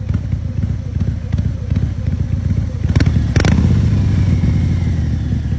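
Harley-Davidson motorcycle engine running with a rapid low pulsing. Two sharp clicks come about three seconds in, and then the engine gets louder.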